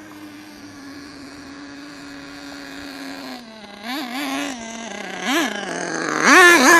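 Small nitro RC engine in an HPI Savage truck idling steadily as it warms up. It is blipped briefly about four and five seconds in, then revved harder near the end. The owner thinks the mixture may be a little rich.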